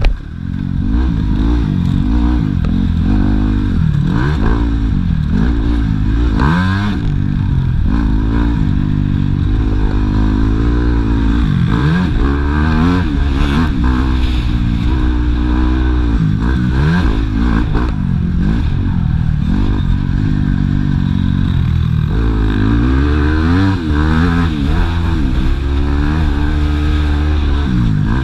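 Yamaha YZ250F four-stroke single-cylinder motocross bike engine revving hard. Its pitch climbs and drops over and over as the rider opens and shuts the throttle and shifts gears through the track sections.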